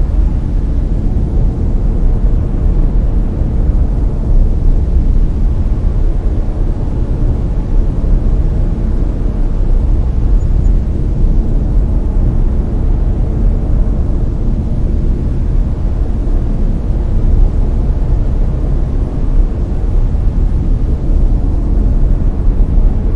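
Layered brown noise: a loud, steady, deep rumbling hiss with most of its energy in the low end, unchanging throughout.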